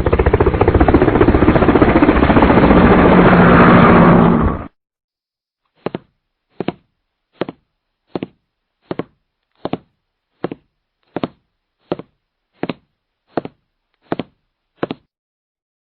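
A power tool runs with a fast, rattling buzz for about four and a half seconds and cuts off. Then come twelve short, evenly spaced knocks, about three-quarters of a second apart.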